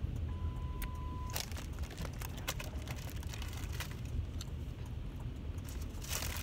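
Low steady rumble of a car's idling engine heard from inside the cabin. A single steady beep lasting about a second sounds near the start, light clicks come and go, and a louder noisy burst comes near the end.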